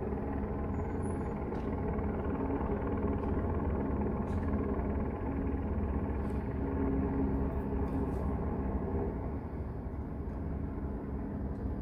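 Steady low rumble of an idling car engine, heard from inside the car.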